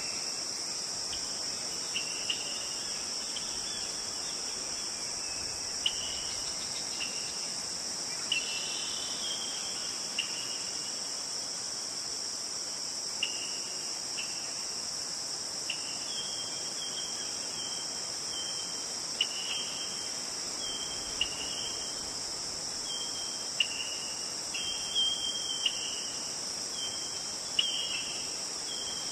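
A steady high-pitched insect chorus like crickets, with a bird chirping short, flat, repeated notes that come more often in the second half.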